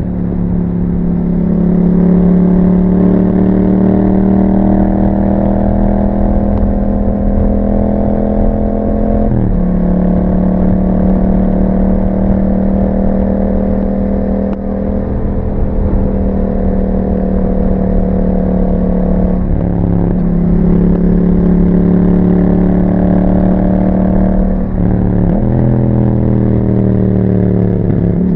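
Yamaha MT-07's 689 cc parallel-twin engine running through an aftermarket Akrapovic exhaust while the bike is ridden. The engine holds a fairly steady speed with slow drifts in pitch, and the pitch changes abruptly about a third of the way in, about two thirds in, again shortly after, and at the very end.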